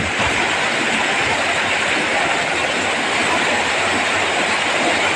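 Heavy rain and strong wind making a steady rushing hiss that does not let up.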